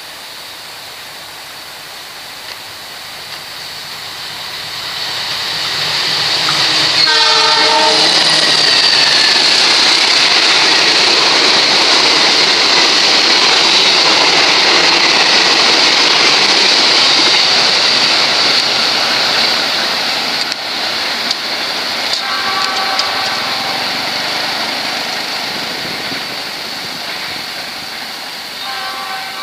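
Diesel locomotive of the Argo Semeru express passing at speed: a short horn blast about seven seconds in, then the loud rush of wheels on rail as the coaches go by, lasting about a dozen seconds and fading away. Shorter horn notes sound twice more near the end, fainter.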